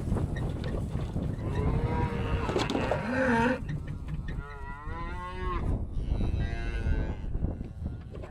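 Cattle mooing: about three long, wavering moos one after another over a steady low rumble.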